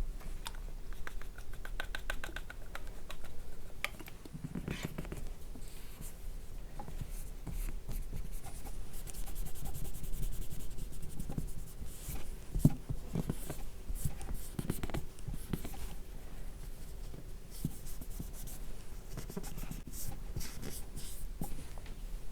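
Fingers working oil cleanser over a mannequin's plastic face: slick rubbing with many small wet clicks, including a fast run of ticks in the first three seconds.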